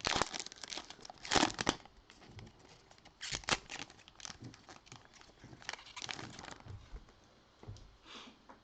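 Trading card pack wrapper being torn open and crinkled by hand: a run of irregular crackling rustles, loudest in the first two seconds, with further bursts around the middle and fading toward the end.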